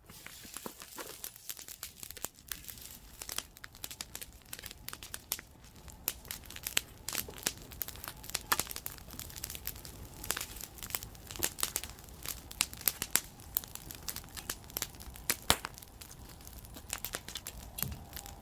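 Wood campfire crackling and popping: irregular sharp snaps, some loud, over a soft steady hiss of burning.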